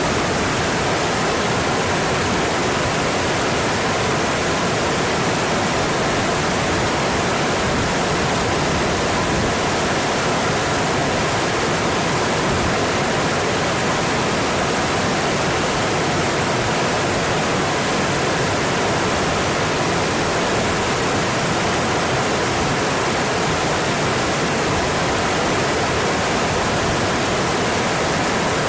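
Mountain stream running: a steady rush of water that holds the same level throughout.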